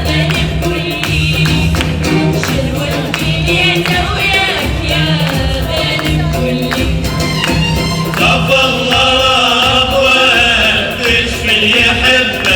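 Live music: a group of voices singing a melody together over percussion.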